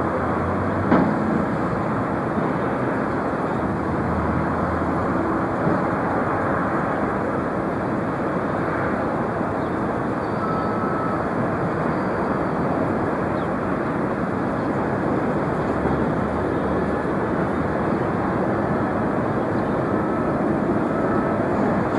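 Steady, even roar of airliner jet engines, with a short knock about a second in.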